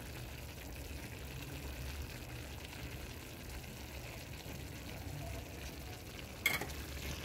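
Gizzards and chicken liver with capsicum and leeks frying in a metal pan: a steady sizzle over a low hum. A single sharp click near the end.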